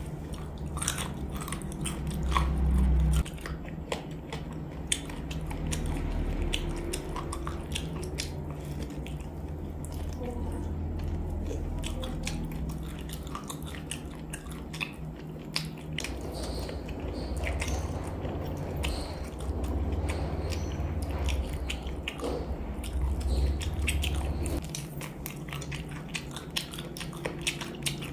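Close-miked biting and chewing of spicy chicken feet, with many small sharp crunches and clicks as the skin and cartilage are gnawed off the bone. A low rumble comes and goes underneath and is loudest a few seconds in.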